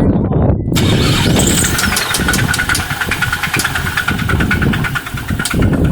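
Nissan VQ35DE 3.5-litre V6 running with a harsh, diesel-like knocking clatter, turning louder and harsher about a second in, with a steady whine over it. The clatter is the sign of serious internal engine damage, which the owner jokes is 'a couple of marbles in there'.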